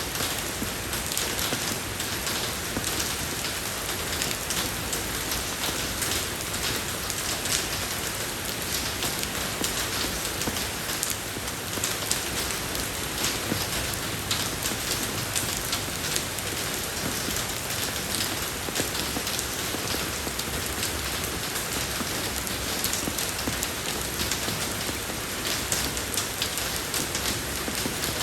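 Steady rain falling on a road surface, an even hiss of many fine drop impacts.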